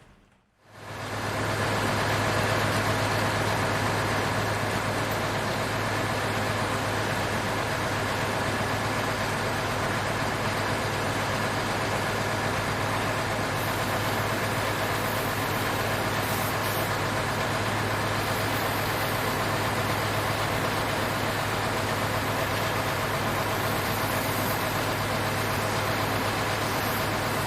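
Truck engine running steadily with an even low hum. It comes in about a second in after a brief silence.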